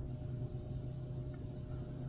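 A steady low mechanical hum with faint background noise.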